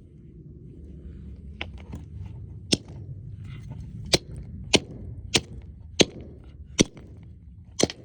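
Hard, sharp blows, about eight in a row at under a second apart, as a bird figure is struck again and again to smash it, knocking pieces off. A steady low rumble runs underneath.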